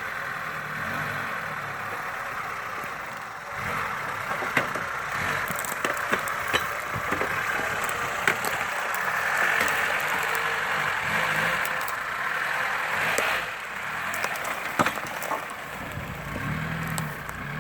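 Off-road 4x4 engine running as the vehicle drives over rough, muddy ground, with scattered sharp clicks and knocks.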